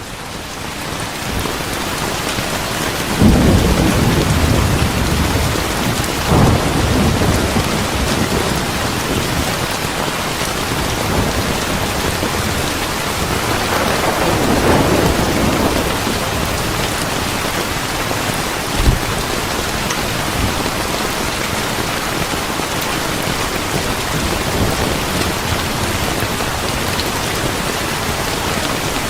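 Steady heavy rain with rolls of thunder: a deep rumble swells a few seconds in, another shortly after, and a longer one near the middle. The rain builds up over the first couple of seconds, and there is a single sharp crack about two-thirds of the way through.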